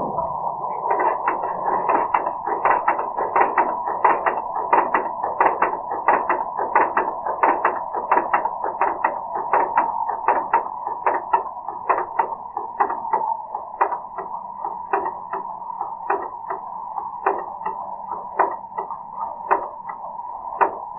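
Chevrolet 5.3 V8 running with its valvetrain exposed, heard slowed down in slow-motion playback: a steady drone with a regular sharp tick, about three a second at first, spacing out to about two a second over the last several seconds as the engine idles down. The tick is a failing lifter, typical of a collapsing lifter.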